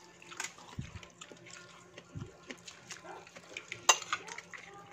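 Close-up eating sounds: chewing and lip-smacking with many small clicks, and a sharper click about four seconds in.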